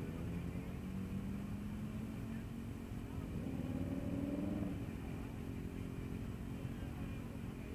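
Motorcycle engine running at low speed under a steady low rumble, its pitch rising for about two seconds midway and then dropping away.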